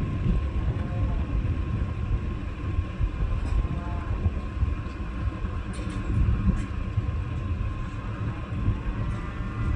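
Vehicle engine idling as a low, uneven rumble, with a thin steady whine above it.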